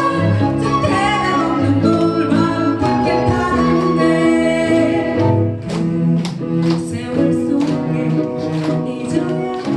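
Live ensemble music with sustained low notes and a melody. From about halfway through, sharp rhythmic strokes, like strummed chords, join in.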